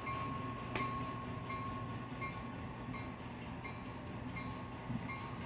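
HO scale model locomotive's sound decoder running as the train pulls away: a steady engine hum with a faint bell ringing about every 0.7 seconds, and one sharp click under a second in.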